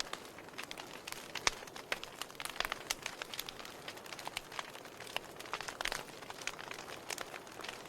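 Wood fire crackling in a fireplace: irregular sharp pops and snaps over a steady hiss of burning, with one louder pop about a second and a half in.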